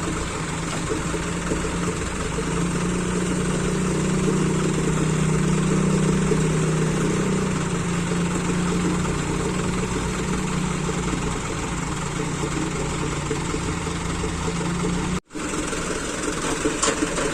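A large vehicle engine idling steadily, its hum swelling slightly a few seconds in. The sound drops out for an instant near the end.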